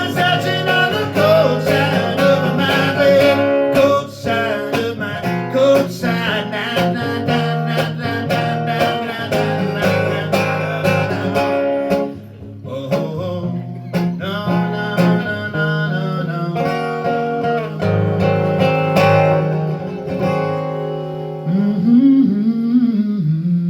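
Music: a guitar-led instrumental passage of a live song, with no lyrics sung.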